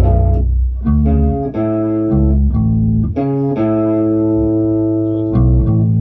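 Guitar playing a low riff of plucked notes. A note rings out for over a second about halfway through, and quicker notes follow near the end.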